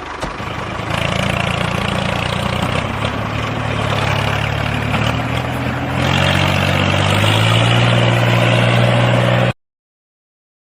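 A DIY mini tractor's small motor running steadily, stepping up in pitch and loudness about a second in and again about six seconds in, then cutting off suddenly near the end.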